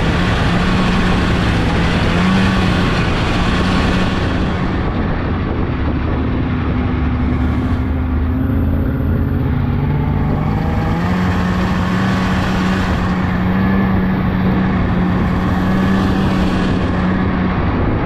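Polaris 600cc snowmobile engine running under way on a snowy trail, its pitch shifting up and down with the throttle, over a steady rush of wind and track noise.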